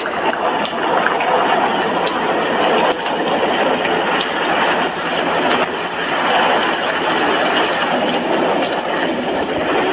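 Steady rain, a constant hiss with many small drops ticking sharply through it.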